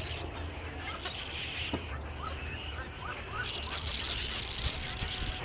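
A flock of birds chirping and chattering together, with many short overlapping calls, over a steady low rumble.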